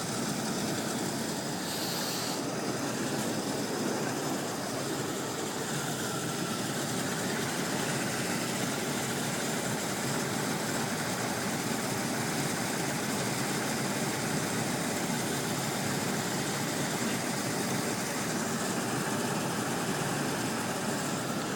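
Buick Electra's 4.1-litre carbureted V6 idling steadily.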